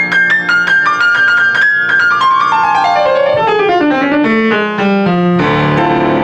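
Piano playing a fast, driving passage: rapid repeated high notes, then a quick descending run that lands on a full low chord about five seconds in.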